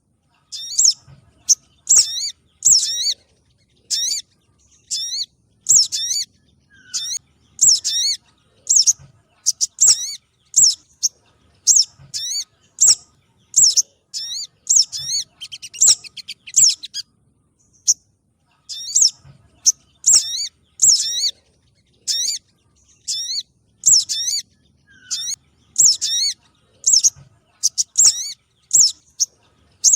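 Lure recording of small songbirds sold as 'sogon trotol' calls: short, sharp, high-pitched chirps with quick up-and-down sweeps, repeated about once or twice a second in runs, with short pauses near the start and about halfway through.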